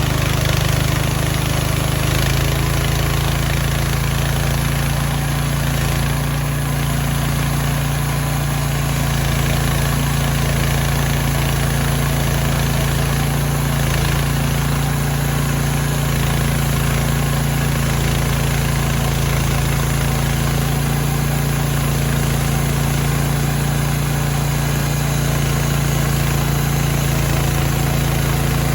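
Gasoline engine of a Mechmaxx band sawmill running steadily at a constant speed, with a slight change in its sound about two seconds in.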